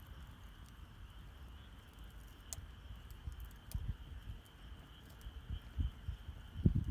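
Wood fire crackling, with scattered sharp pops and a few low soft thumps; the loudest thump comes near the end. A steady faint high insect trill runs underneath.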